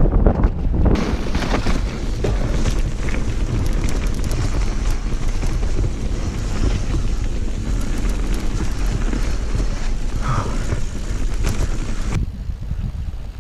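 Wind buffeting a camera microphone on a mountain bike at speed, with tyre noise and many brief clicks and knocks from the bike over the rough trail. The upper hiss drops away about 12 seconds in.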